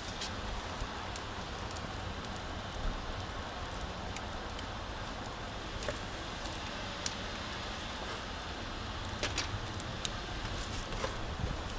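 Wood fire burning in a washing machine drum fire pit, crackling with irregular sharp pops over a steady hiss.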